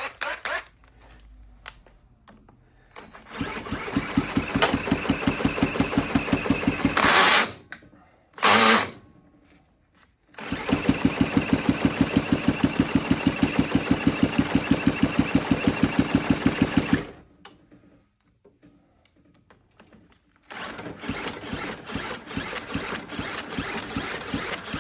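A 150cc GPX single-cylinder engine is cranked over by an electric drill on the crankshaft nut, with a quick steady pulse of compression strokes. It comes in three spells, each stopping abruptly, with a short burst between the first two. It turns over without catching and running.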